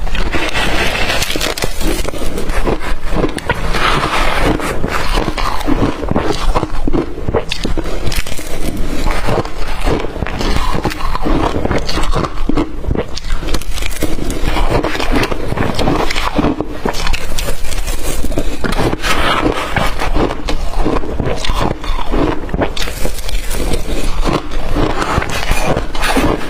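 Blender-crushed ice being bitten and chewed: a continuous, dense run of sharp crunches.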